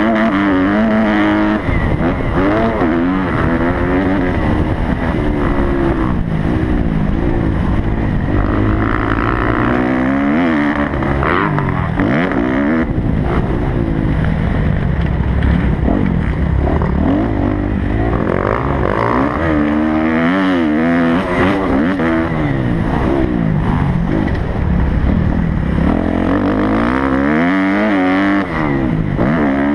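Kawasaki motocross bike engine revving hard, its pitch climbing and dropping over and over as the rider accelerates, shifts and backs off around the track, over a constant low rumble.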